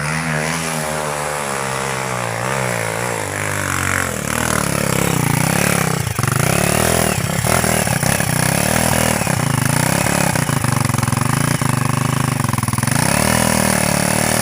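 Motocross bike engine running, then revving up and down repeatedly, louder from about four seconds in.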